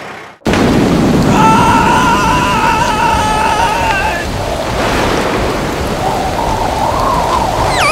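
Cartoon storm sound effect: heavy rain and wind that cut in abruptly about half a second in and run on steadily. A wavering whistling tone sits over them from about one and a half to four seconds in, and a falling warbling tone starts right at the end.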